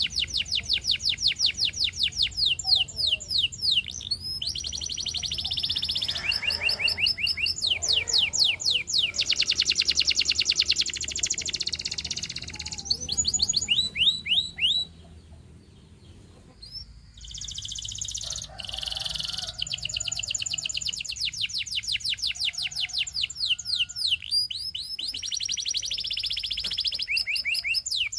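Canary singing: long runs of rapid, evenly repeated downward-sliding notes, trilled rolls changing from one tour to the next, with a brief pause about halfway through.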